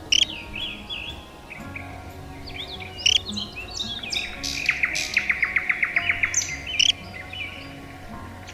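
Songbirds chirping in short, quick calls, with a rapid trill of about a dozen even notes around the middle, over soft background music.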